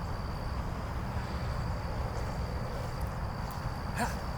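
Insects making a steady, thin, high-pitched drone over low outdoor rumble, with a single sharp smack about four seconds in.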